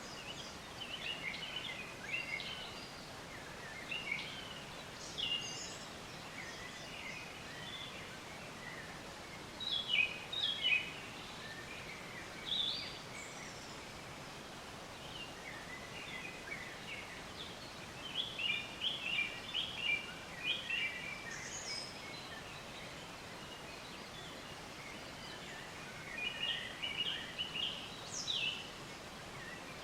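Birds chirping in scattered bursts of quick, high calls over a steady outdoor background hiss.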